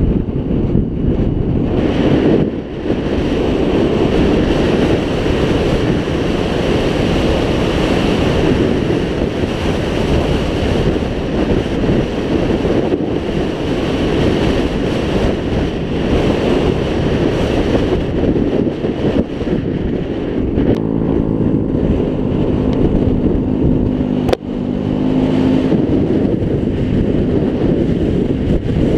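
Wind buffeting a helmet-mounted camera while riding a scooter, with the scooter's small engine running underneath. The engine's steady hum stands out more clearly for a few seconds about two-thirds of the way through, and there is a single sharp click partway through that stretch.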